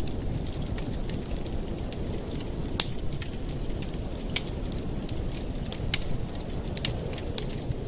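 Campfire burning: a low steady rumble of flame with sharp, irregular crackles and pops from the wood, a few standing out louder.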